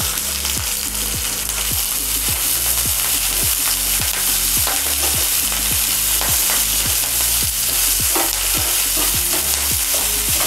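Chopped pirandai (veldt grape) stems and leaves sizzling steadily as they sauté in hot oil in a nonstick frying pan, stirred with a slotted spatula.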